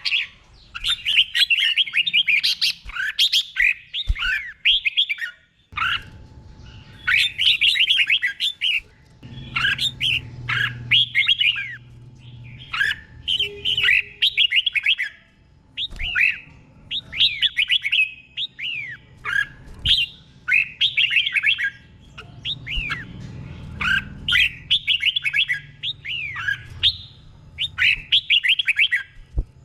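Red-whiskered bulbul singing in its doubled style: short, quick phrases of sweeping whistled notes, repeated about once a second with brief pauses between.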